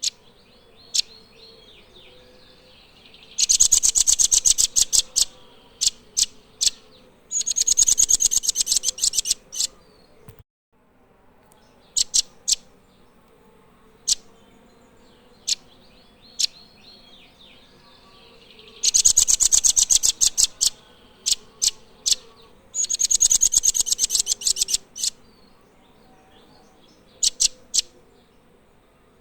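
Nuthatch song: two pairs of loud, very fast trills of high sharp notes, each trill lasting about two seconds, with single sharp call notes scattered between them.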